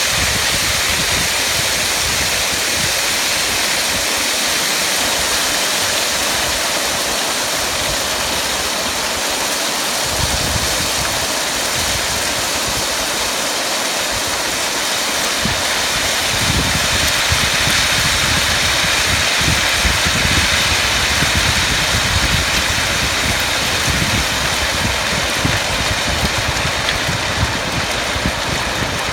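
Fast-flowing floodwater rushing through a breach in a pebble beach ridge, a steady loud roar. A low, uneven rumble joins it from about ten seconds in.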